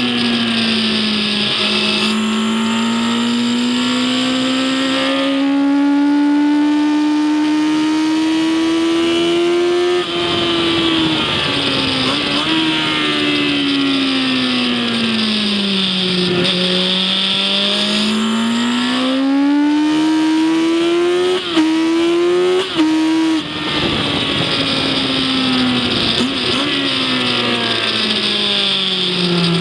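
Racing engine heard onboard during a circuit lap: its pitch climbs slowly through long pulls in each gear, drops at gear changes about a third of the way in, falls and climbs again, then dips several times in quick succession near the three-quarter mark. A steady hiss of wind and road noise runs underneath.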